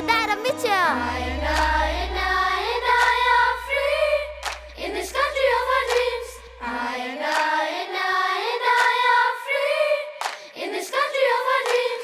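Children's choir singing a slow, held melodic passage with no drum beat, over a low bass note that fades out about seven seconds in.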